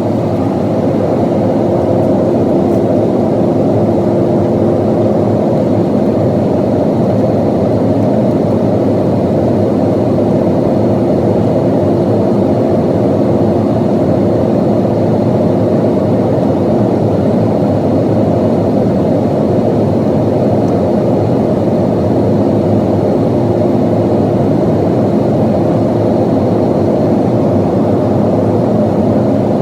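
Steady cabin noise of a Boeing 737-800 in flight, heard from inside the cabin: the CFM56 turbofans' drone mixed with rushing airflow, with a few steady hums running through it.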